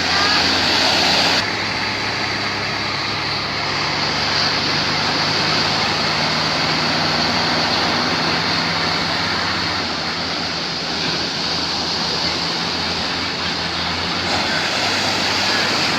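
Boat engine running with a steady low hum under a constant rush of water and wind; the hiss drops suddenly about a second and a half in.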